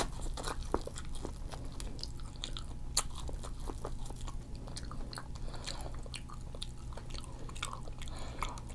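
A person chewing and biting food close to the microphone: a run of small, irregular mouth clicks and crunches, one sharper click about three seconds in.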